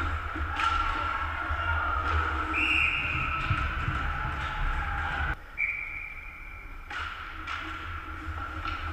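Ice rink game ambience with a low rumble on the microphone, broken by two short, steady high tones like whistle blasts, one about two and a half seconds in and one about six seconds in. The background drops suddenly a little after five seconds.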